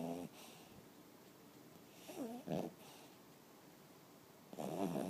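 Dog snoring in its sleep: three pitched snores about two and a half seconds apart, the middle one wavering in pitch.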